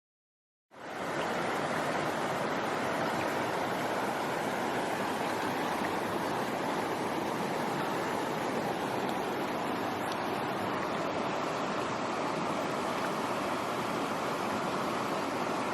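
A steady rushing hiss, like running water, that starts abruptly under a second in and holds even throughout.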